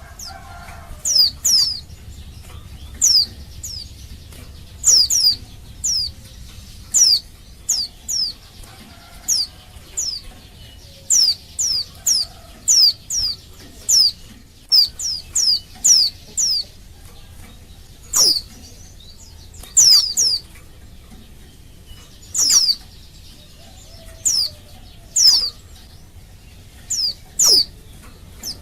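Female pleci (white-eye) giving a long series of thin, high call notes, each a quick downward sweep, mostly in twos or threes about once a second: the call of a female in breeding condition calling to males.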